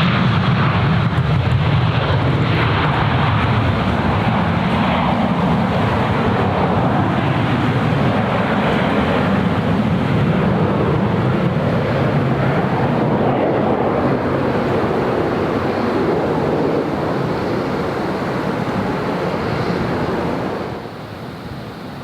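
Jet airliner's engines heard at close range at an airport, a loud, steady rumble that slowly fades and drops away sharply about a second before the end.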